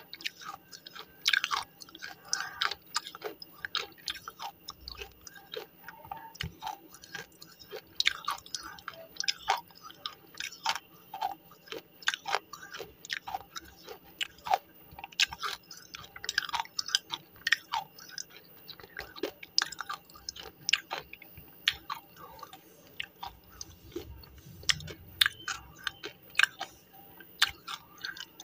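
Close-miked chewing of crunchy slate pencil pieces: an unbroken run of irregular sharp crunches and clicks, several a second.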